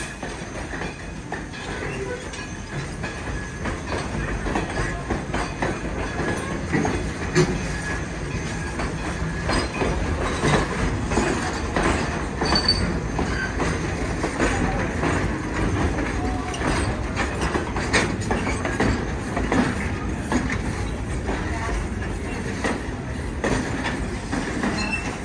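East Broad Top narrow-gauge passenger cars rolling past at close range: steady wheel rumble with irregular clicking over rail joints and a light wheel squeal now and then.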